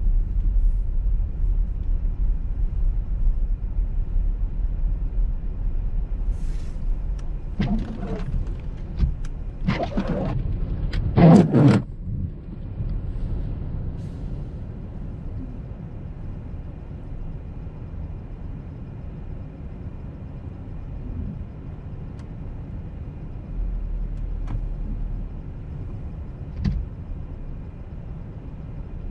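A car driving on a snowy motorway: steady low tyre and engine rumble. A louder rushing swell comes about eight to twelve seconds in, after which the rumble settles lower.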